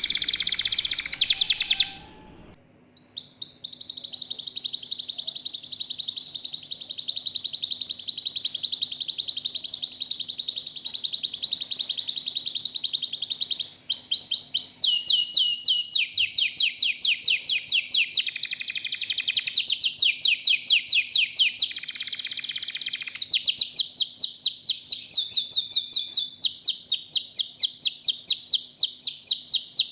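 Domestic canaries singing: long, fast trills of high, rapidly repeated notes, broken by a short pause about two seconds in.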